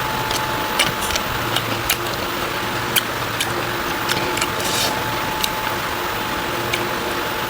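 Close-miked mukbang eating sounds: sharp, irregular mouth clicks and crunches, a few each second, with a short rustly burst near the middle, over a steady low hum.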